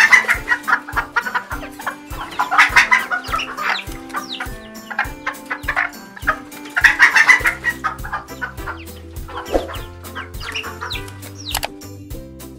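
Chicken clucking dubbed over background music with a steady beat, in three loud bouts of clucking: at the start, about three seconds in and about seven seconds in.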